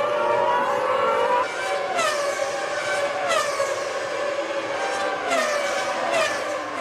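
1997 Formula One car engines running at high revs. After a steady high note, the pitch falls sharply about four times in quick succession, like cars going by one after another or shifting down.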